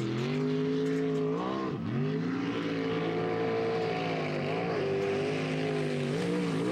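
Jet sprint boat engine running hard on a race run. Its pitch holds high for stretches, then drops sharply and climbs back about two seconds in, again midway and near the end, as the throttle comes off and back on through the turns.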